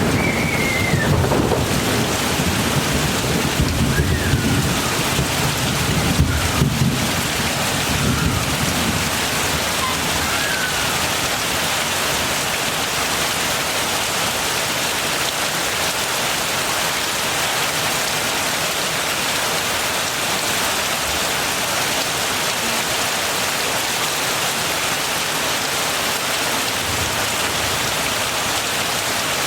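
Heavy rain falling steadily, with a low rumble of thunder in the first several seconds that fades out.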